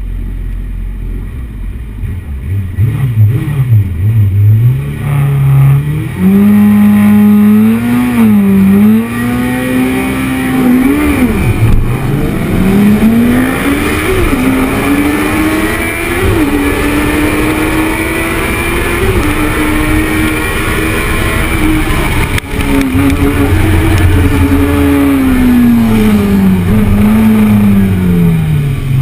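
2004 Kawasaki Z750's inline-four engine, heard from onboard, accelerating hard through the gears from the race start. The pitch climbs and drops back at each upshift, and near the end it falls away gradually as the revs come down.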